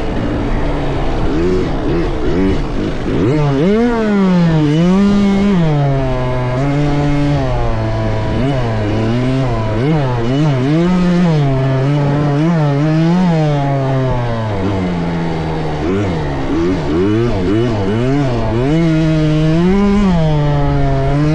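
Motocross dirt bike engines revving up and down over and over as the bikes accelerate, shift and back off around the track. At times more than one bike can be heard at once.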